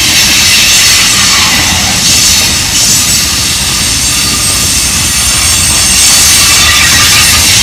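Loaded rock hopper cars of a freight train rolling past close by: a loud, steady rumble of steel wheels on rail, with faint thin squeals from the wheels now and then.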